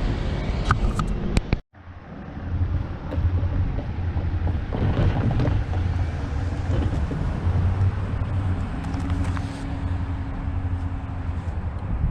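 A train running past with a few sharp wheel clicks, cut off abruptly about a second and a half in; then a steady low engine rumble with wind noise on the microphone.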